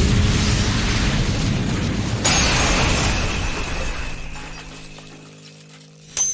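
Anime battle sound effect: a loud explosion-like blast, a second surge about two seconds in, then a long fade. A sharp metallic clink comes near the end.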